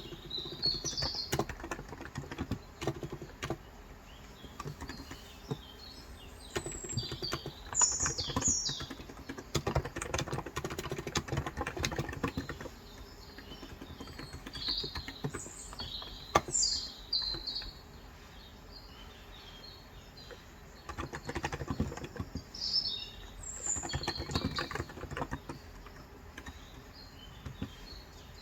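Typing on a Cox Endeavour electro-capacitive (Topre-style) keyboard with 35 g switches, keystrokes coming in quick runs with short pauses between them, while small birds chirp and twitter in the background.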